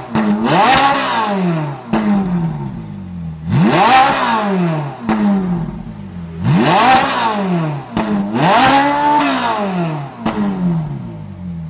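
Ferrari 458 Italia's 4.5-litre V8 being revved hard at a standstill, over and over. Each rev climbs sharply and falls back to idle, about every two to three seconds.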